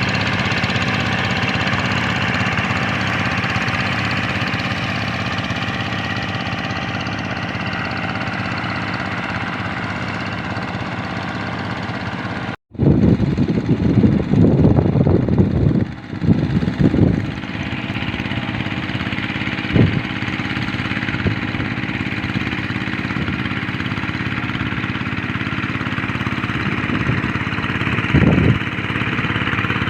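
Kubota RD 85 single-cylinder diesel engine of a hand tractor running steadily. About 13 s in the sound drops out for an instant and returns with a few seconds of louder, uneven low rumbling, then settles back to the steady run.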